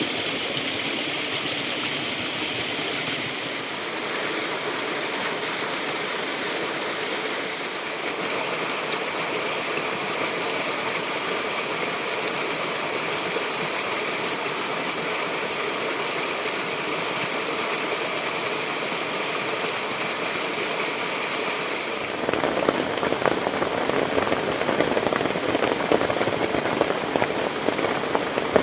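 Steady rushing noise of water, from rain and a fast-flowing stream swollen by the storm. About two-thirds of the way in it turns abruptly louder and rougher.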